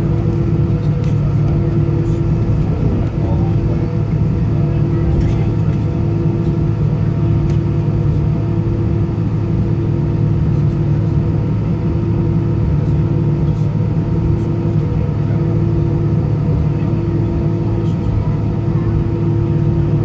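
Steady engine and cabin noise inside an Airbus A320-214 with CFM56 engines running, a loud even hum with a low tone pulsing on and off about once a second.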